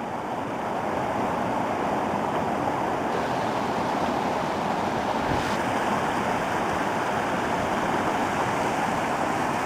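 Waterfall on a heavily running winter stream: a steady rushing of water that swells slightly in the first second, then holds even.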